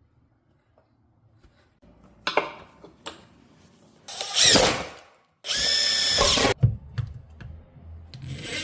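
A power drill running in three short bursts after about two seconds of quiet, its whine rising as it spins up, with a knock just before the first run.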